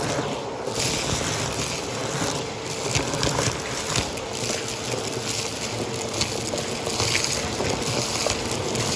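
Vacuum cleaner running steadily, its motor and airflow making a constant rush with a steady hum. Many small clicks and crackles through it, debris being picked up by the brushroll.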